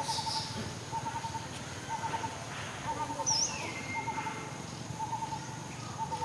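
Outdoor animal chorus: a short pulsed call repeating about once a second, over a steady high insect drone, with a few bird chirps about halfway through.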